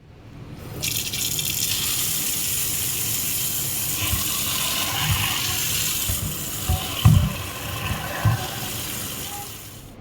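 Water running steadily from a tap into a sink, with a few dull knocks past the middle, the loudest about seven seconds in.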